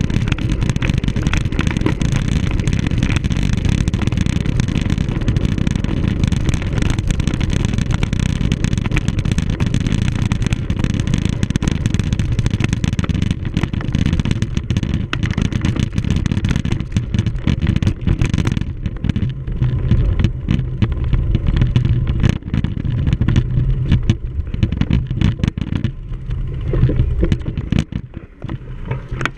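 Wind rumbling on the microphone of a camera riding on a cyclocross bike, with the bike rattling and clattering over rough ground; it eases near the end.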